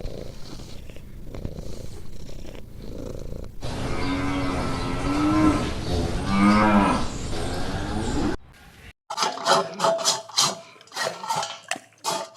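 Cow mooing: one long, loud moo lasting about four seconds that drops in pitch near its end. Before it, a low steady cat purr; after a short break, a quick run of short, sharp animal sounds begins.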